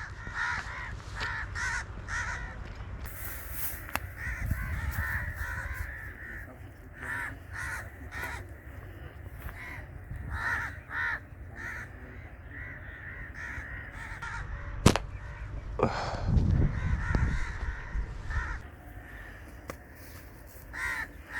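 Crows cawing repeatedly, with one sharp crack about fifteen seconds in.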